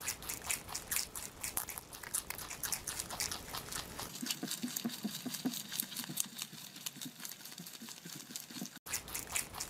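Rabbit grazing on grass: quick, irregular small clicks of nibbling and chewing, with a brief gap near the end.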